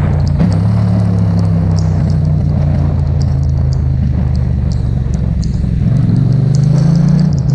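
Yamaha MT-07's parallel-twin engine running steadily under way. Its pitch climbs slightly near the end, then drops abruptly.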